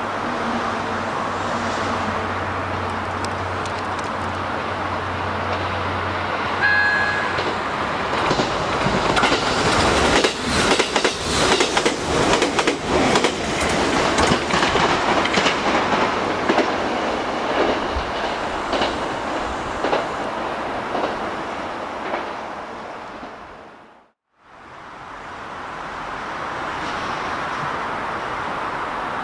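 A 783 series limited express electric train gives a short horn blast, then passes through the station at speed. Its wheels clatter over the rail joints for about fourteen seconds, and the clatter dies away near the end.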